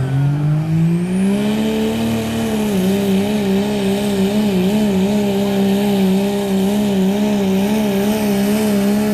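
Diesel pulling truck's engine under full load on a pull: it revs up over the first two seconds, then holds high rpm, its pitch wavering slightly as the truck pulls the sled.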